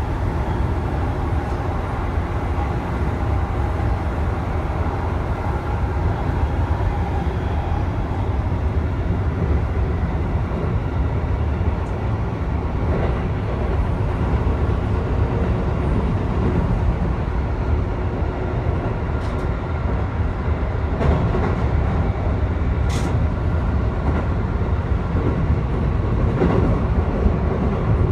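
Keikyu electric train running, heard from inside the front car: a steady rumble of wheels and motors on the track, with a few brief sharp clicks in the second half.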